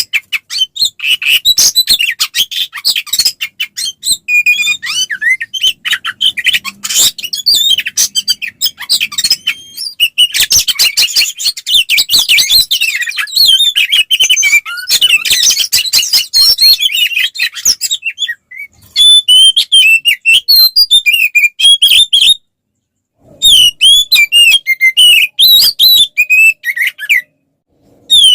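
Oriental magpie-robin (kacer) singing hard in its aggressive fighting song: a fast, dense stream of harsh chattering and high whistled notes. In the last third the phrases turn into clearer whistles broken by short pauses.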